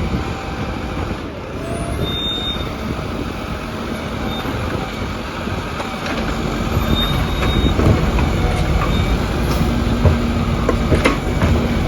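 Garbage truck running close by, a steady mechanical noise with a few sharp knocks near the end.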